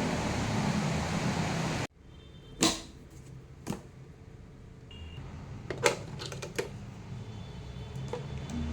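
A steady rain-like hiss that cuts off abruptly about two seconds in. After it come a few sharp clicks and taps of small objects being handled in a quiet room.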